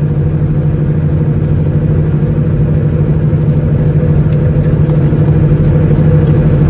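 Semi-truck diesel engine running with a steady, even low drone.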